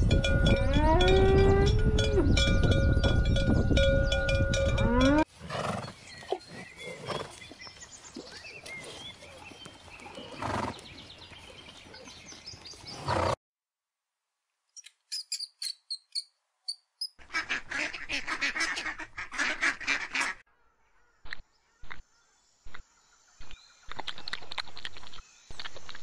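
A cow mooing once, its call rising and then held, over a heavy low rumble. Then come quieter, scattered small-animal sounds: short chirps, ticks and clicks, with a brief silence between them.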